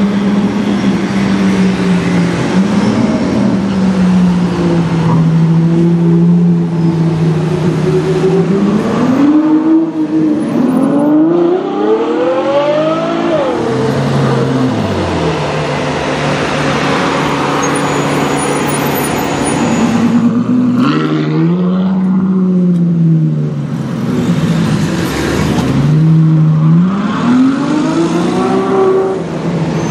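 Ferrari FF's V12 engine revving and accelerating, its pitch climbing steeply and dropping back several times between spells of low, steady running.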